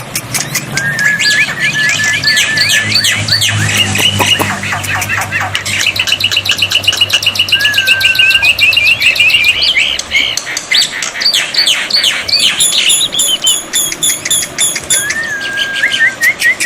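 Black-winged myna (jalak putih) singing: rapid harsh chattering and clicking notes mixed with chirps and short whistles, with a fast steady trill in the middle.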